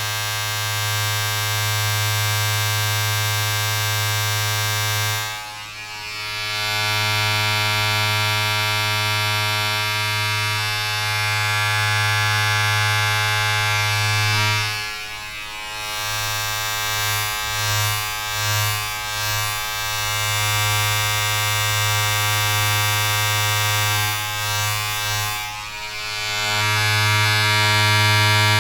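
A steady electric-sounding buzzing drone: a strong low hum with many even overtones. It dips briefly three times and wavers for a couple of seconds in the middle.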